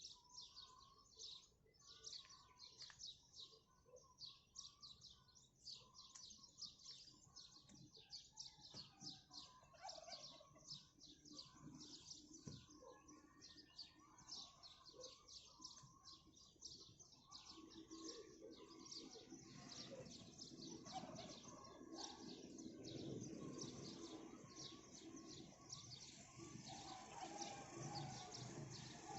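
Faint dawn chorus of many small birds chirping in rapid, overlapping high chirps. A low background rumble grows in during the second half.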